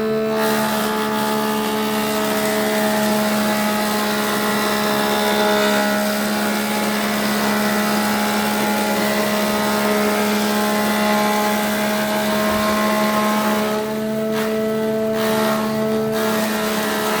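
SCM L'Invincibile 2000D jointer planer running, with its three-knife cutter block spinning: a loud, steady hum with higher tones and hiss over it.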